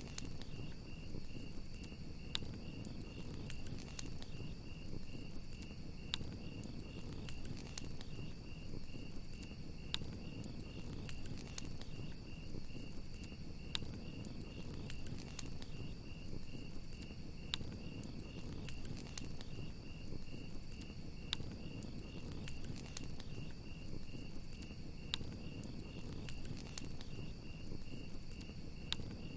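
Campfire crackling, with sharp pops every second or so over a steady low rumble of burning wood. Crickets chirp continuously in a fast, even pulsing trill.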